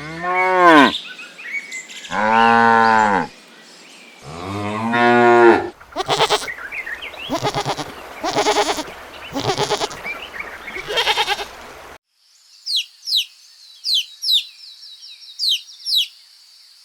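Cattle mooing: three drawn-out moos, each about a second long and rising then falling in pitch. These are followed by a run of wavering sheep bleats. After a sudden cut about twelve seconds in, a small bird gives quick, high chirps that slide down in pitch, repeated several times.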